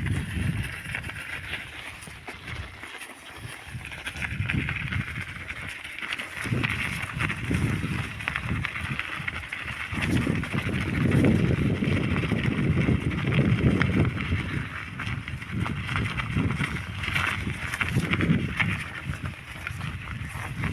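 Bicycle ride noise on a forest trail: tyres rolling over the ground with a steady hiss, under an uneven low rumble that swells and fades.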